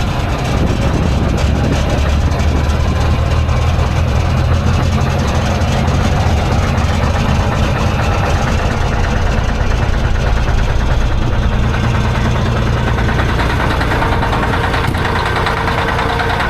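Freightliner semi truck's diesel engine idling steadily just after a hard cold start, left running to warm up.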